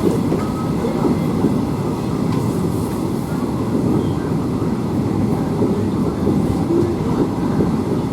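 KTM sleeper train running, a steady rumble of wheels on rail.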